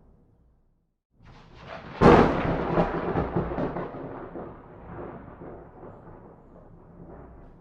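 A thunderclap: after a brief silence a rumble builds, a sharp loud crack comes about two seconds in, then a long rolling rumble slowly dies away.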